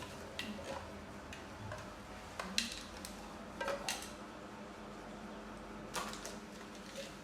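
A few sharp light clinks and taps, scattered one to two seconds apart, of small hard objects knocking together, over a faint steady hum.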